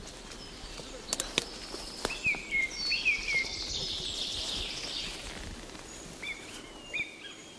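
Small birds chirping in short, repeated, curved calls over a steady outdoor hiss, with a few sharp clicks in the first couple of seconds.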